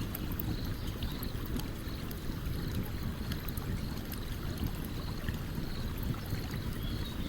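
Stream water running steadily, with a campfire's small crackles and pops scattered over it.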